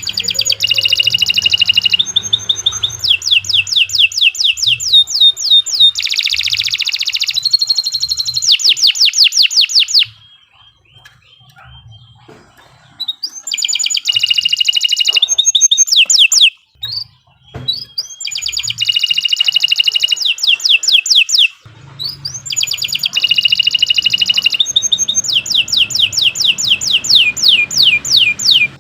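Domestic canary singing long phrases of rapid trills and rolls, each made of quickly repeated high notes, with a pause of a few seconds about ten seconds in before the song resumes.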